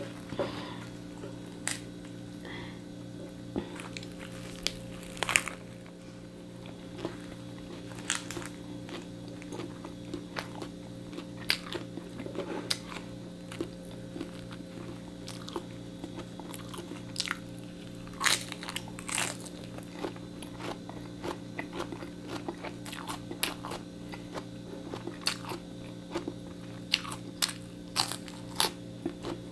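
Close-miked biting and chewing of a toasted lettuce, egg and mayonnaise sandwich: irregular crisp crunches of lettuce and toast, over a steady low hum.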